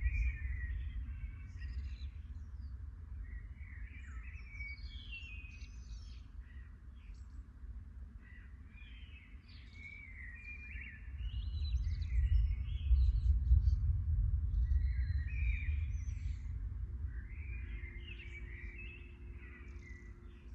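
Thunder rumbling low and deep: one roll fades away at the start and another swells about halfway through, then dies away slowly. Songbirds chirp and sing throughout.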